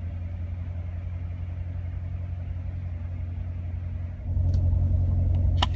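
2016 Corvette Stingray's 6.2-litre V8 running with a steady low hum, getting louder about four seconds in as it takes more throttle. A couple of sharp clicks near the end.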